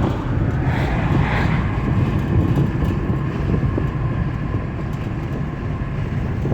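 Steady road and engine rumble of a vehicle being driven, heard from inside the cabin.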